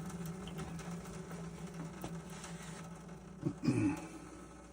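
Water running from an open tap into a sink and tapering off as the shut-off house lines drain. A short, louder sound comes about three and a half seconds in.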